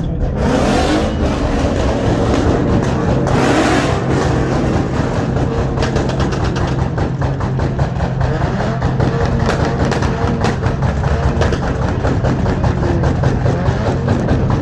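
Car engines revving, their pitch rising and falling over a steady low drone, with two short bursts of noise about a second and three and a half seconds in.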